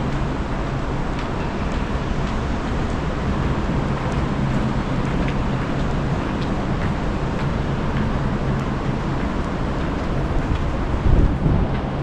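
Steady urban traffic noise, a low hum of engines under an even rush. About eleven seconds in comes a brief low rumble of wind buffeting the microphone.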